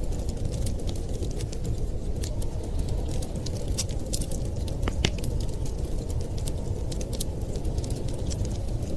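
Wood fire crackling, with many scattered sharp pops and snaps over a steady low rumble; one louder pop about halfway through.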